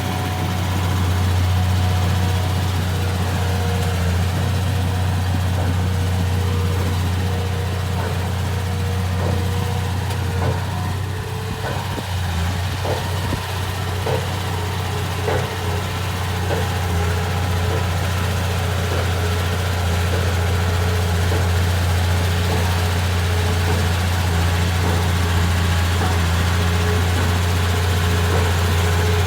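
Komatsu D31P bulldozer's diesel engine running steadily at a low, even speed. In the middle comes a run of light knocks, about one a second.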